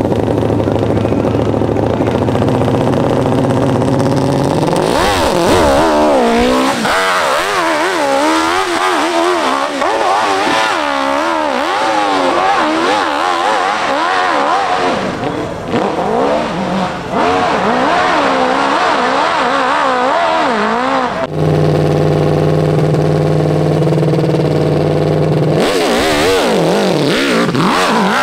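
Hillclimb racing motorcycle engine idling steadily, then revving hard from about five seconds in, its pitch rising and falling rapidly as the bike makes its run up the hill. About twenty-one seconds in, the sound switches abruptly to a steady idle. Hard revving starts again near the end.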